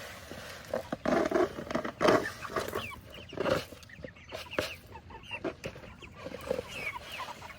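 A flock of chickens clucking and chirping while feeding, many short calls overlapping.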